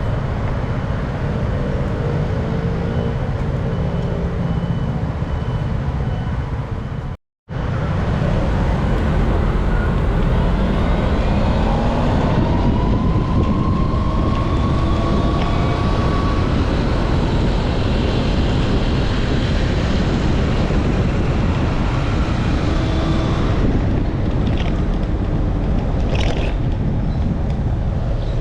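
Wind buffeting the microphone while riding in road traffic, with passing vehicle engines rising and falling in pitch. The sound cuts out completely for a moment about seven seconds in.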